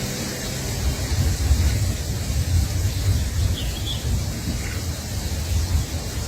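Outdoor background noise, a steady hiss over a low rumble, with two or three faint short bird chirps in the middle.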